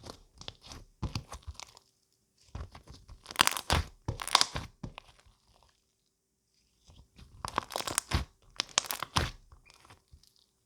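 Close-up crunching and crackling in three bursts of rapid sharp clicks, with short silent gaps between them.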